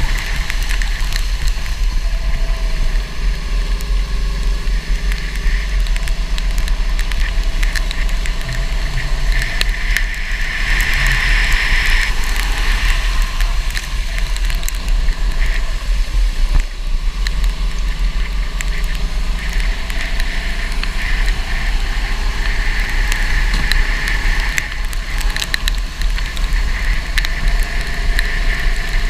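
Go-kart engine running and revving up and down, its pitch slowly rising and falling, over a heavy rumble of wind on the microphone and a hiss that swells at times.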